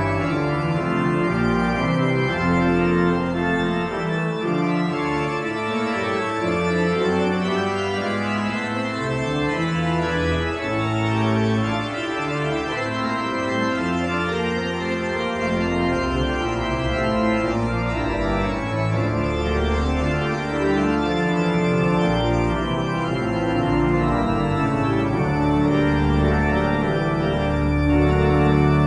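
Pipe organ playing sustained full chords over a moving deep bass line, the notes held long and blending without gaps.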